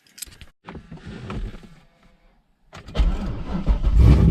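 A few clicks and handling noises, then about three seconds in a Corvette's V8 engine cranks and fires, its low running sound building loudly toward the end.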